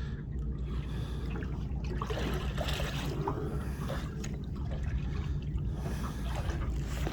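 Water lapping and trickling against the hull of a small drifting boat, with small scattered splashes over a steady low rumble.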